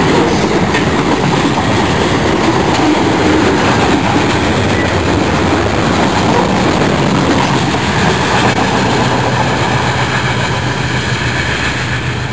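Freight train of high-sided cars rolling past close by: a steady loud rumble with the clatter of steel wheels over the rails.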